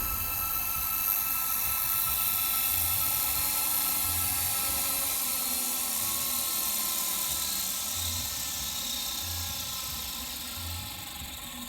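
WLToys V950 RC helicopter's electric motor and rotor whining with a steady high pitch, slowly getting fainter.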